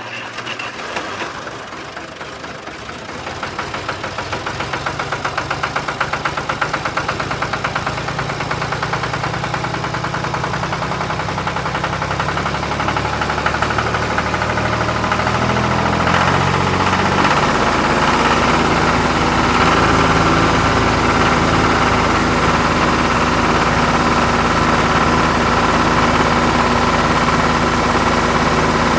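A vehicle engine running with a steady throb, growing louder over the first half and then holding steady.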